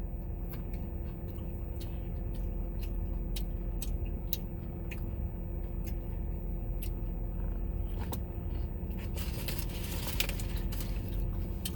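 A steady low hum of a car with its engine running, with scattered small clicks and taps as the food and its containers are handled. A stretch of rustling near the end, as of a paper or plastic food bag.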